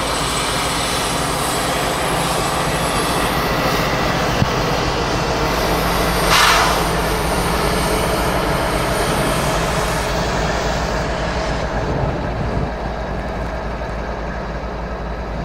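Slow freight train rolling past, a steady noise of the cars moving on the rails, with one short burst of higher-pitched noise about six and a half seconds in.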